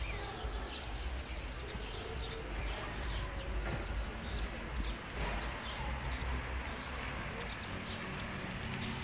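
Small birds chirping in short, repeated high calls over a steady low rumble.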